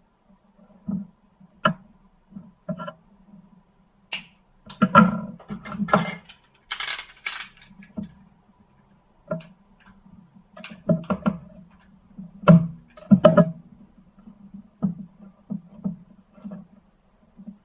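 Small metal parts and tools being handled during work on a cordless impact wrench, giving irregular clicks, clinks and knocks. There is a brief scraping rustle about seven seconds in, over a faint low steady hum.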